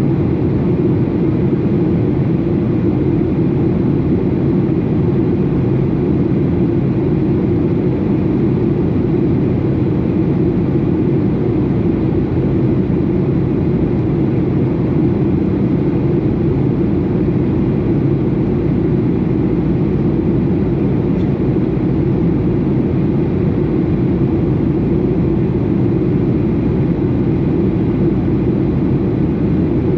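Boeing 737 airliner's steady cabin noise: a loud, even rumble of jet engines and airflow with no changes.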